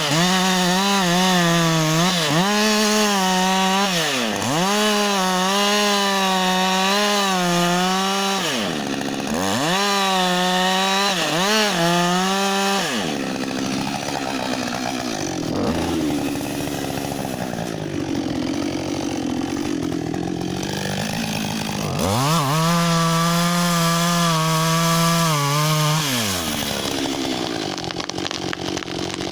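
Husqvarna 562 XP two-stroke chainsaw running at high revs, its pitch dipping sharply several times and recovering. It turns lower and rougher for several seconds midway, climbs back to high revs, then drops away a few seconds before the end.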